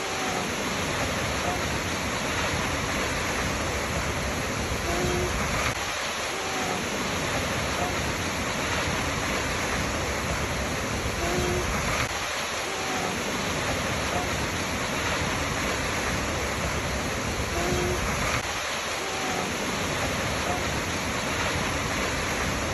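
Waterfall: a steady, even rush of falling water. A faint short tone recurs about every six seconds.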